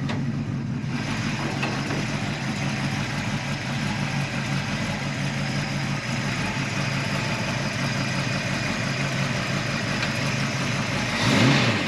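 347 stroker small-block Ford V8 idling steadily while it warms up after a cold start, breathing through shorty headers and the existing exhaust.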